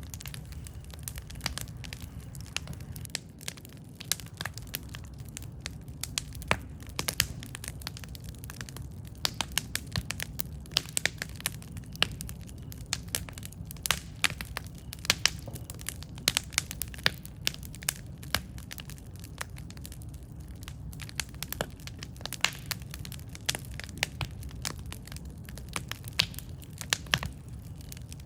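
Wood fire burning: irregular sharp crackles and pops from the burning logs over a steady low rumble of the flames.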